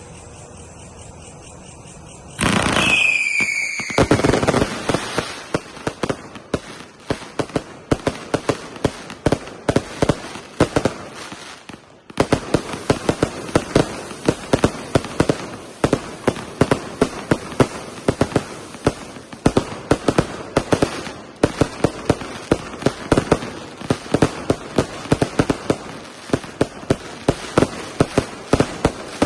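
A Chief Commander 300-shot, 1.2-inch firework cake firing. A sharp onset with a falling whistle comes about two and a half seconds in, then a rapid stream of shots and bursts, several a second, with a brief break about twelve seconds in.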